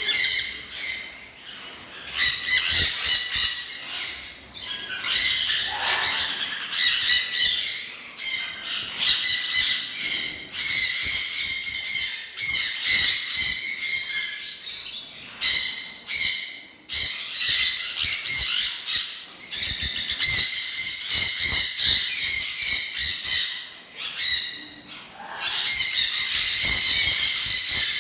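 A flock of caged aviary birds chattering and squawking continuously, many calls overlapping, with a few brief lulls.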